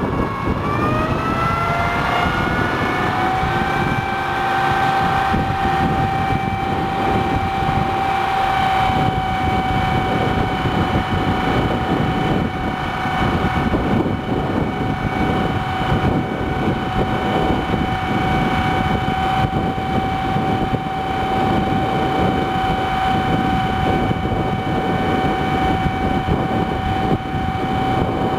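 1982 Ford flatbed crane truck running: a steady rumble with a whine on top that dips in pitch at the start, climbs over the first few seconds, then holds steady.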